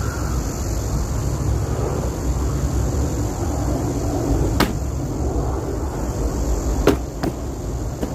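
Three sharp strikes on wood, typical of an axe splitting logs: one about halfway in, then two in quick succession near the end. Under them is a steady low rumble.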